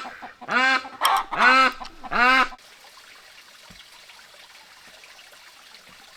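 Domestic fowl calling: a quick run of about five loud, arching honk-like calls, stopping about two and a half seconds in.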